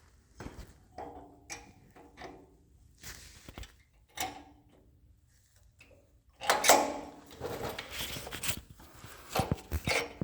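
Hands working on a portable generator's carburetor and fittings: scattered clicks, knocks and short squeaks of parts being handled, with a louder spell of rubbing and clatter about six and a half seconds in.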